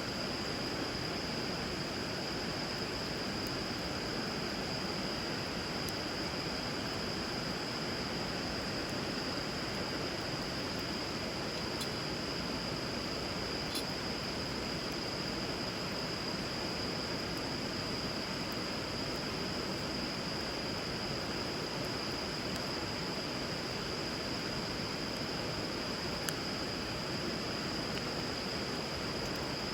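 Steady rush of river water with a bonfire burning on it, giving a few faint crackles, over a continuous high-pitched whine.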